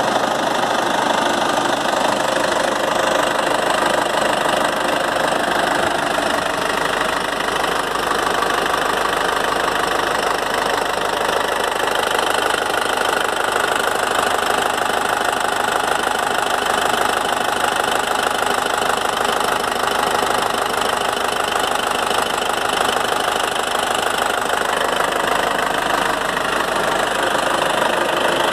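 Toyota 14B 3.7-litre four-cylinder diesel engine running steadily at one constant speed.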